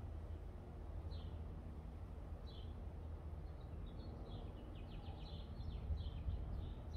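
Small bird chirping: single short downward-sliding chirps about a second in and again a second and a half later, then a quick run of chirps in the second half, over a steady low rumble.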